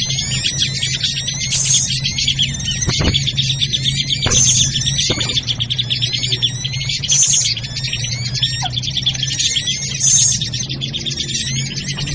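Bird-lure recording of noisy drongo (srigunting) calls amid dense, continuous small-bird chirping and chattering. A harsh, noisy call repeats about every two and a half seconds, as in a loop, over a steady low hum.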